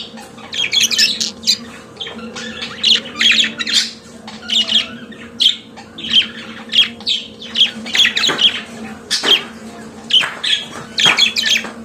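Budgerigar song: fast, chattering warble of short squawks and chirps in quick clusters, with no pause longer than about half a second.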